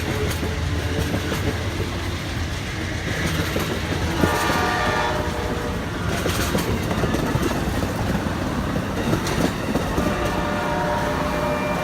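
A train rolling past with a steady rumble and wheel clatter, its horn sounding a chord of several notes about four seconds in and again faintly near the end.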